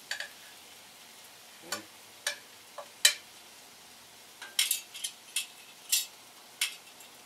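A cooking utensil clinking and clicking about a dozen times as food is plated, over a faint sizzle from the grill. The sharpest clink comes about three seconds in, and the clicks come quicker in the second half.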